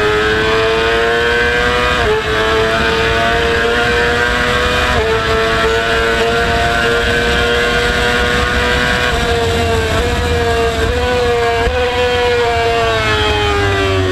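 Motorcycle engine running hard at high revs, its pitch holding high and creeping up with a few brief dips, then falling near the end as the bike slows, over a low rumble of wind noise.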